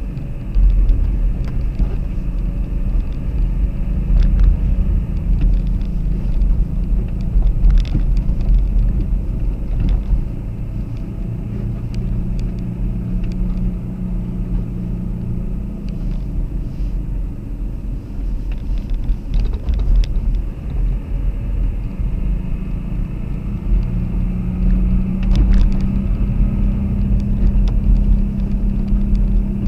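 Car driving at a steady pace: a continuous low engine and road rumble with a steady engine note that shifts slightly now and then, and a few faint clicks or knocks over the top.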